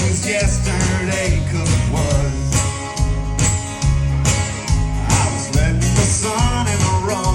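Country band playing a song live: a male lead vocal sings over electric guitars, bass and a steady drum beat.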